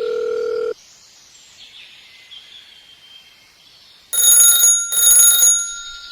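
A steady electronic tone cuts off suddenly under a second in. A few quiet seconds later, a loud, high-pitched electronic alarm starts ringing in repeated pulses of about two-thirds of a second, two of them before the end.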